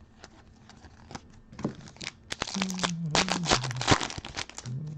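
Foil wrapper of a trading-card pack being torn open and crinkled: a few light clicks and rustles at first, then about two seconds of tearing and crinkling in the middle.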